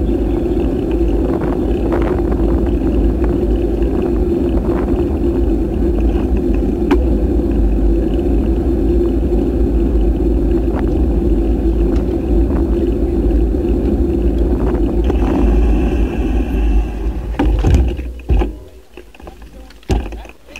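Wind noise buffeting the action camera's microphone during a bike ride, with riding noise under it. The noise drops sharply near the end, and a few knocks follow.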